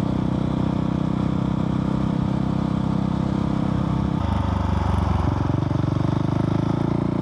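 Husqvarna 701's single-cylinder engine running through its Arrow aftermarket exhaust while riding. The note is steady at first, then changes about four seconds in, dropping lower and getting stronger.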